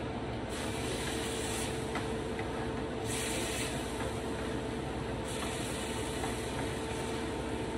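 Sofrito frying in a pan as it is stirred with a wooden spoon, the sizzle swelling in stretches, over a steady low mechanical hum.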